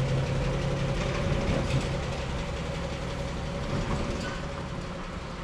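Holden EJ's engine running steadily at low revs, its sound fading gradually.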